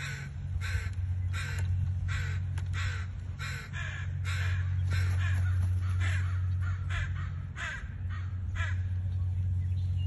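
Harsh, caw-like bird calls repeated about twice a second, stopping near the end, over a steady low rumble.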